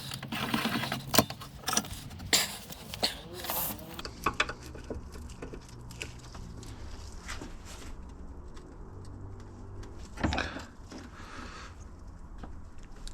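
Sharp metal clicks and knocks from handling the seized piston of a hydraulic jack as it is worked to free it, several in the first four seconds, then quieter and sparser, with one louder knock about ten seconds in. A low steady hum sits underneath.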